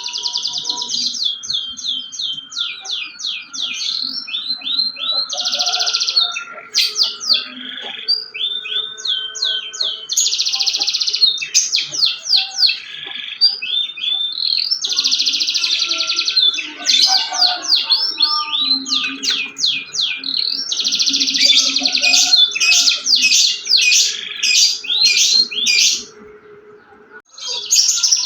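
Canary singing continuously: long fast rolls and trills alternating with quick runs of separate chirping notes, pausing briefly near the end.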